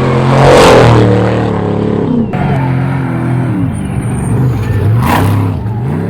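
Trophy Truck desert race trucks, engines revving hard, their pitch swooping up and down as the throttle is worked over the jumps. Two loud rushing surges as trucks pass, the loudest about half a second in and another near the end.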